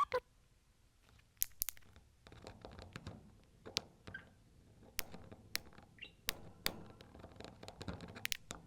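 A pet budgerigar tapping and nibbling close to the microphone: an irregular run of small clicks and knocks, with a couple of short faint high notes.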